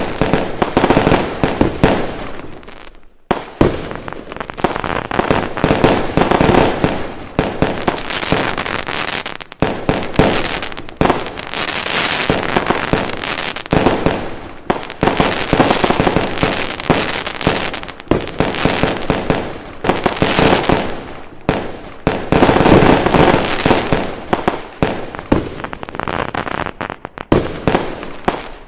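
Fireworks going off in a dense barrage: rapid, overlapping bangs and crackling, with a brief lull about three seconds in.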